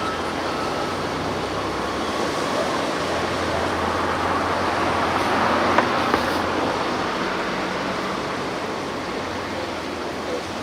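Sea surf washing steadily, with a road vehicle passing: the rush swells to a peak about six seconds in and then fades back.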